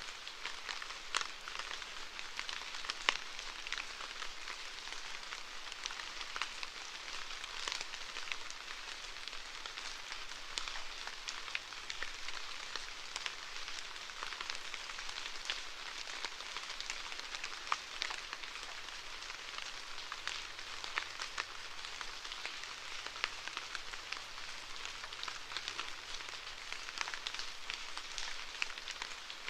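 Steady rain falling: a continuous even hiss scattered with many sharp individual drop ticks on a surface.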